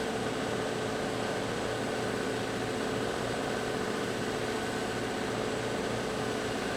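Electric buffing wheel running steadily, a constant motor hum and whir, while a wooden stave drum shell's bearing edge is buffed against the compound-loaded wheel.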